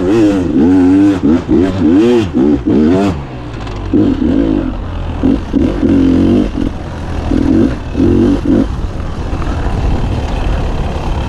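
Beta 300 two-stroke dirt bike engine being ridden, revving up and down quickly for the first three seconds, then a run of short throttle bursts with brief let-offs from about four seconds in.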